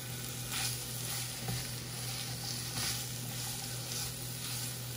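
Chicken, onions and peppers sizzling steadily in a hot frying pan, with a few faint clicks over a steady low hum.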